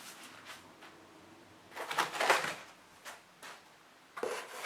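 Cardboard box and packaging being handled: rustling and scraping, louder about two seconds in, with a sudden knock near the end.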